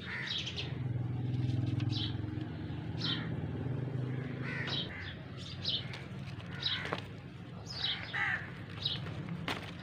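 Small birds chirping outdoors, short high calls repeating every second or so, over a low rumble that swells and fades in the first half.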